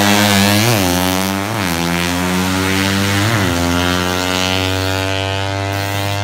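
Drag-race motorcycle engine running at a steady idle, blipped three times with quick throttle stabs: just under a second in, about a second and a half in, and a little after three seconds.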